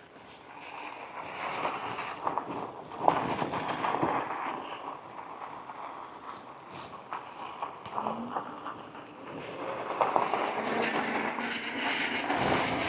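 Rolling noise from riding a bicycle on pavement, rising and falling, with scattered clicks and rattles.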